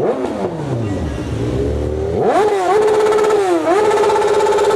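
Motorcycle engine revving: a short rev that falls away at the start, then about two seconds in it climbs hard, drops back twice as if changing gear, and holds high near the end.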